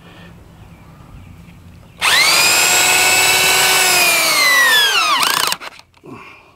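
Power drill motor starting suddenly and whining at speed for about three and a half seconds, its pitch sagging slowly, then winding down and stopping.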